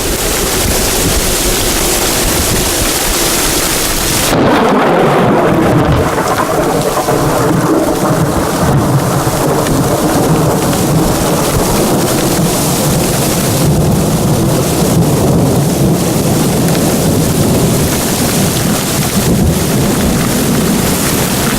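Thunderstorm: a steady rush of wind and rain, then, about four seconds in, the sound changes abruptly to a long rolling rumble of thunder that goes on under the rain.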